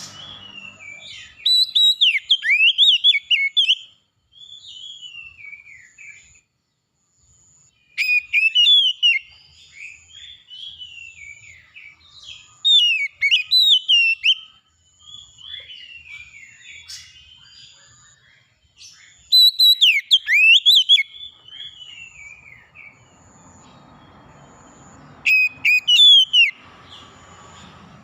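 A songbird singing loud, rapidly gliding whistled phrases in bursts every few seconds, with softer warbling between them. A faint high note repeats at an even pace behind the song.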